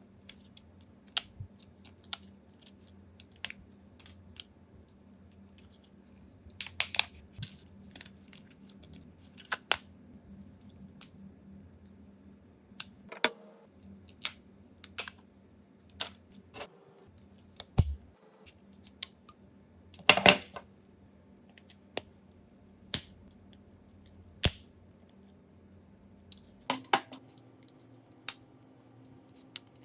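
Scattered sharp clicks and taps of small tools and parts being handled during a phone repair, a few with a short clatter, about one or two every couple of seconds.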